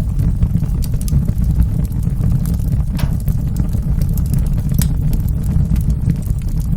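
Fireplace fire burning: steady low flame noise with scattered sharp crackles and pops, the clearest about three seconds in and again near five seconds.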